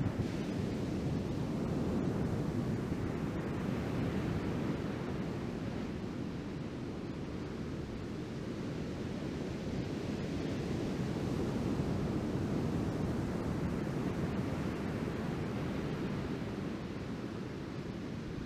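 Ocean surf washing onto the beach as a steady, low rumbling wash that slowly swells and eases, with some wind on the microphone.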